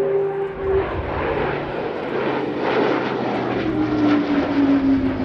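Airbus A400M's four turboprop engines and big propellers as the aircraft flies past at speed. A steady propeller tone stops about a second in; from near four seconds a new tone slides steadily down in pitch as it passes.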